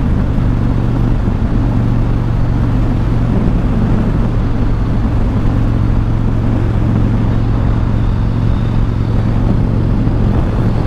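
Harley-Davidson Road King's V-twin engine running steadily at cruising speed, with wind noise over it.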